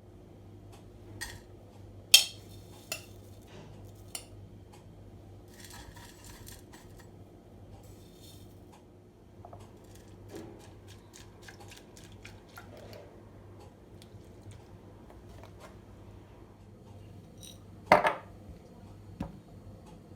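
Kitchen handling sounds: dishes and utensils clinking and knocking now and then over a steady low hum. There is a sharp clink about two seconds in and a loud clatter with a short ring near the end.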